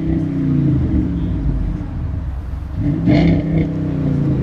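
Car engine being revved hard while stationary: it holds at a lower speed, then is revved up again about three seconds in and drops back.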